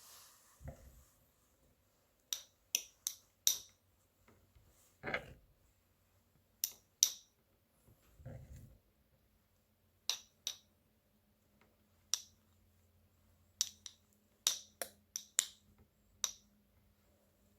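Kitchen knife mincing garlic cloves on a cutting board: irregular sharp taps of the blade, often in quick runs of two to four, with three duller, lower knocks among them.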